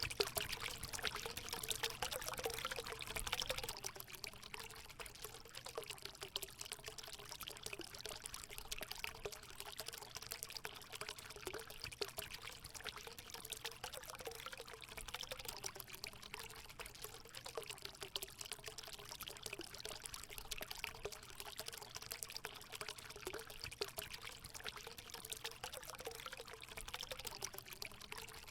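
Water running and splashing steadily into a hot spring pool, a continuous pouring trickle with a low gurgling tone that wavers.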